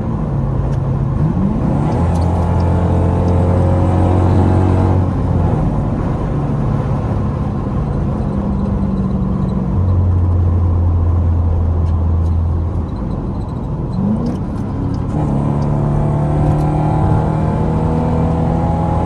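Straight-piped Dodge Durango R/T V8 exhaust driving on the highway: a loud, steady drone, with the revs climbing briefly twice, about a second and a half in and again near fourteen seconds.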